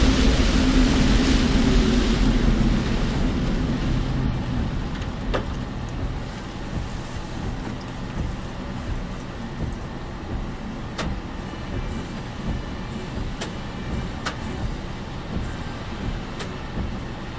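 Car road and engine noise heard from inside the car, dropping off over the first few seconds as the car slows, then a low steady rumble with a few sharp ticks.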